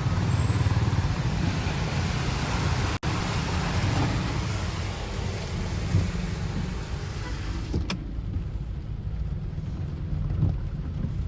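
Car driving through a flooded road in heavy rain: a low engine and road rumble under a steady wash of rain and water noise. The hiss drops away sharply about eight seconds in, after a click.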